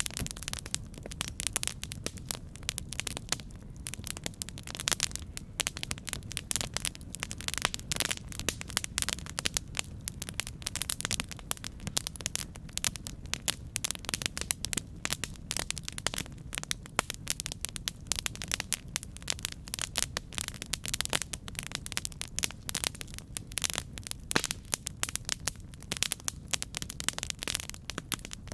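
Campfire crackling: dense, irregular pops and snaps over a steady low rush.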